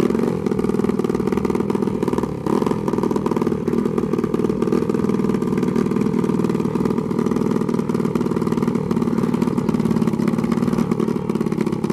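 Dirt bike engine running at a steady pitch.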